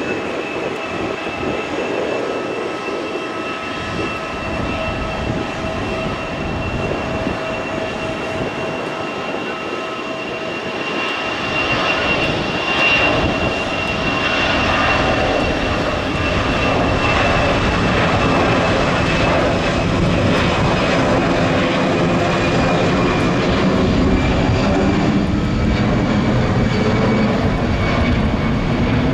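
Boeing 747 jet engines running with a steady high whine over a rushing roar, the sound growing louder about twelve seconds in.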